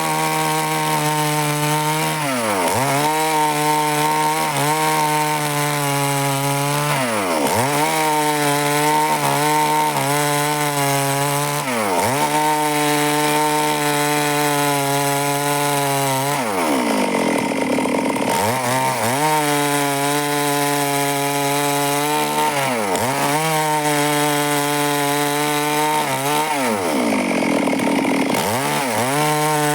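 Stihl chainsaw engine running through wood cuts. Its pitch holds steady, then drops sharply and climbs back every few seconds, with a longer dip twice.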